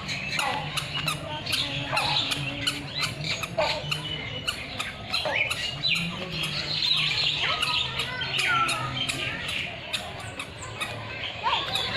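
Many captive birds chirping and squawking together, a dense run of short, sharp calls overlapping with no break.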